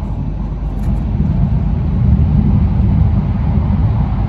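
Steady low rumble of an E3-series Shinkansen train running at about 130 km/h, heard from inside the passenger cabin.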